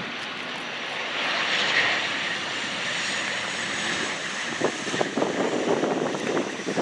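Airplane engine noise from a fixed-wing aircraft passing: a steady rush that swells about a second in, turning rougher and crackly in the second half.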